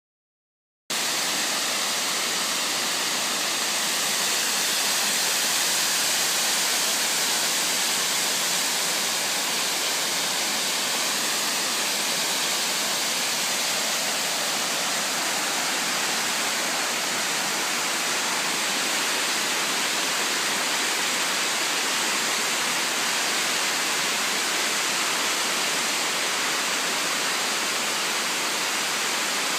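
Oshinkoshin Falls, a waterfall, pouring steadily: an even, unbroken rush of falling water, heaviest in the hiss of the upper range. It cuts in suddenly about a second in.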